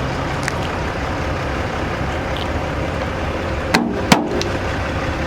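Truck engine running close by, a steady low rumble, with two sharp knocks in quick succession about two-thirds of the way in.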